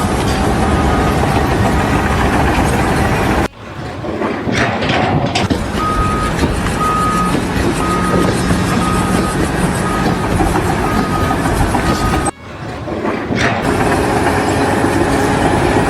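Heavy construction vehicle engine running, with a reversing alarm beeping at an even pace, a little more than once a second. The sound drops out abruptly twice, then picks up again.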